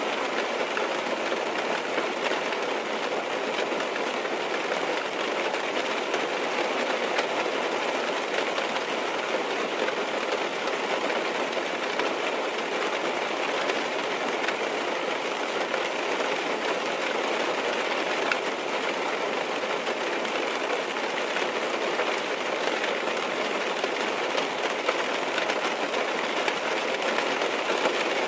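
Rain falling steadily on a car's roof and glass, heard from inside the cabin: a dense, even patter of drops.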